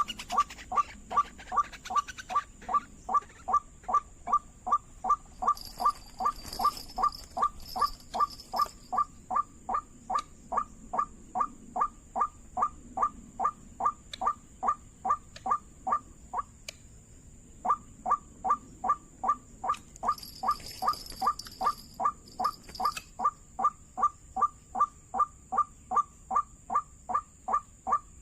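White-breasted waterhen (ruak-ruak) call: a short note repeated with machine-like evenness about two and a half times a second, with a break of about a second midway, as when a lure recording loops. A steady faint high whine runs behind it, joined twice by brief high buzzing.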